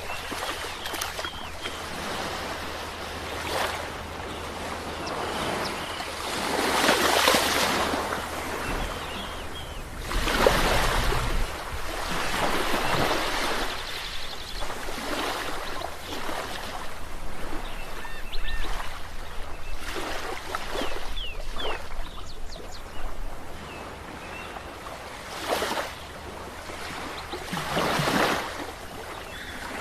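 Ocean waves washing onto the shore, a steady hiss of surf that swells several times as larger waves break.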